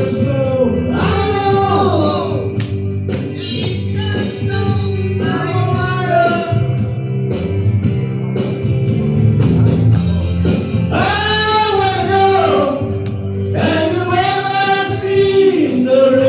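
Live band music with several male and female voices singing together over guitar-led accompaniment.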